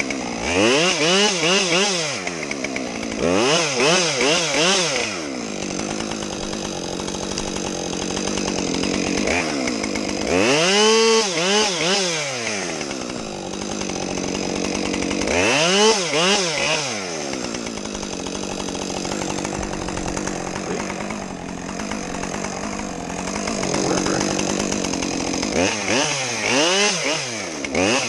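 Chainsaw engine revving up and dropping back again and again, six or so swells of rising and falling pitch, with steadier stretches of running at a lower pitch between them.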